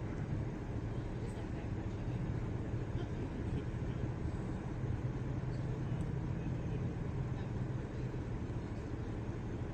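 Steady low hum of a vehicle engine running at idle, unchanging throughout.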